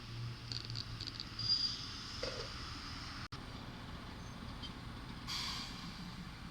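Electric train running, its low hum fading away, with high, thin chirps in the first couple of seconds. A brief dropout comes about three seconds in, then a faint steady rumble with one short hiss.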